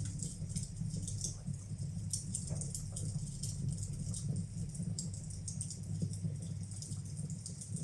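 Wood fire burning in a fireplace, crackling with many small irregular snaps over a steady low rumble.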